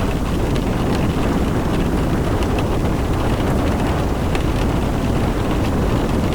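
Car driving in rain: a steady low road-and-wind rumble with scattered light ticks of raindrops.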